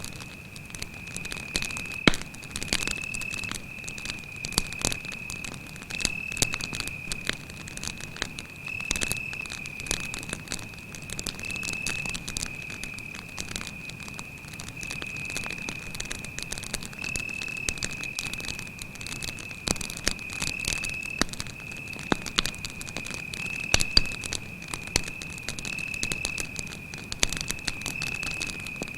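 Campfire crackling with irregular sharp pops, over a cricket's continuous high-pitched trill.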